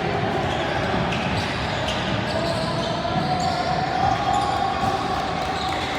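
A basketball bouncing on a gym court during a game, with voices in the background.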